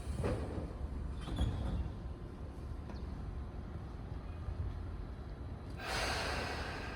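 Tobu 10030-series electric train standing at a station with a steady low rumble, a few short knocks early on, and a hiss lasting about a second, six seconds in.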